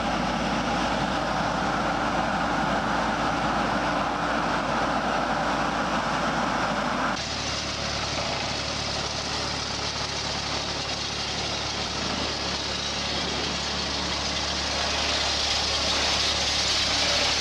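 Engine of heavy farm machinery running steadily. About seven seconds in, it cuts abruptly to a different running machine.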